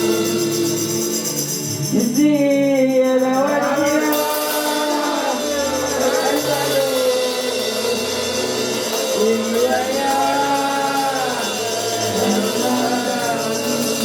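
Worship music: a voice singing a melody over tambourine and other percussion.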